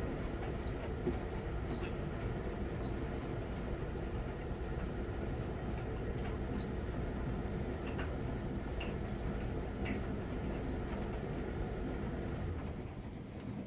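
Miele Novotronic W921 front-loading washing machine running its wash cycle: a steady rumble from the turning drum with a few light clicks, easing off slightly near the end.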